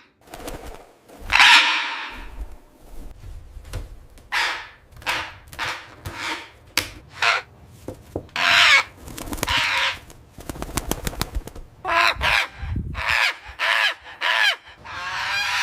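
Pet parrot screaming over and over in harsh, crow-like calls, raising the alarm over a gas leak. A quick rattle of clicks comes about two thirds of the way through.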